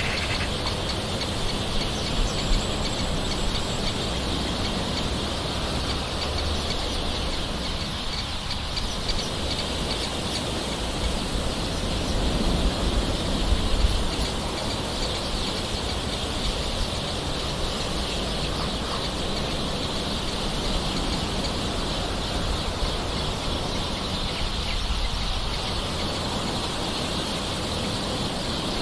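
Soft, steady rain with birds calling in the background.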